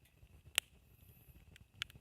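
Wood campfire crackling, with two sharp pops about half a second and nearly two seconds in, and a few fainter ticks.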